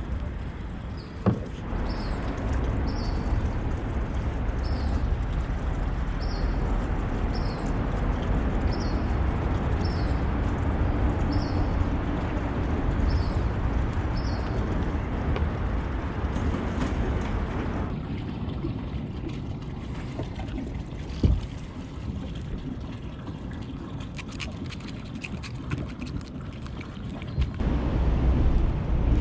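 Water moving and sloshing around a kayak, as a steady rushing noise. A short high sound repeats about once a second through the first half, and there are two sharp knocks, about a second in and past the middle. The noise thins for a while and grows louder near the end.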